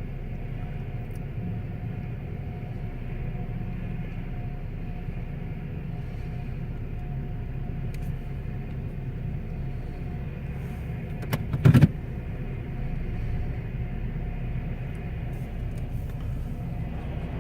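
Car engine idling, a steady low rumble heard from inside the cabin, with one brief thump a little past the middle.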